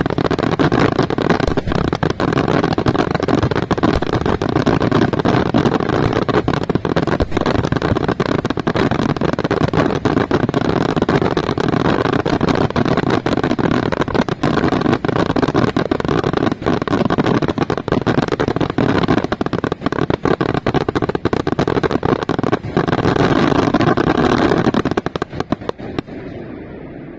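Aerial fireworks by Senatore Fireworks bursting in a dense, continuous barrage of rapid bangs and booms. Near the end it stops abruptly, leaving a low rumbling echo.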